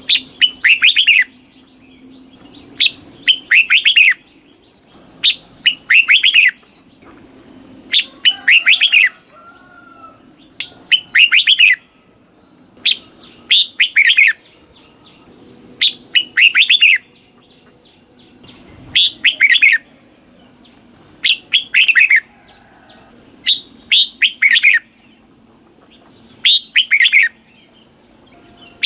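Red-whiskered bulbul singing: short, loud, quick warbling phrases repeated over and over, about one every two and a half seconds.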